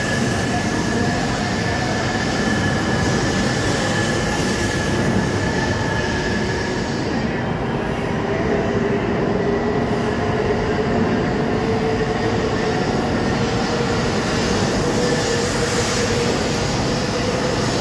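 Shinkansen train, an E3 series coupled to an E2 series in 200-series livery, pulling out of the platform and gathering speed: steady rail and wheel noise as the cars pass, with a motor whine that rises slowly in pitch in the second half.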